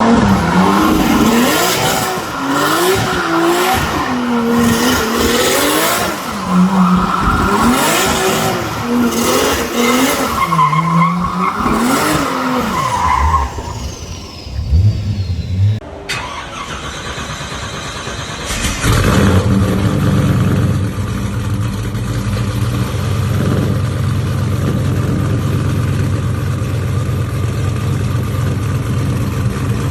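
A muscle car engine revving up and down again and again for about the first half. After a sudden cut, a big engine idles with a steady low note.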